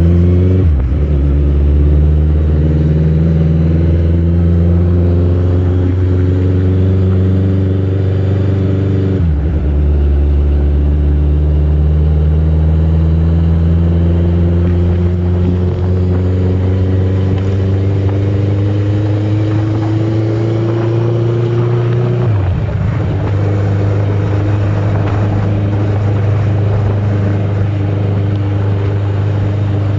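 Car engine pulling away and accelerating through the gears. Its pitch climbs steadily in each gear and drops at the shifts, about a second in, about nine seconds in and about twenty-two seconds in.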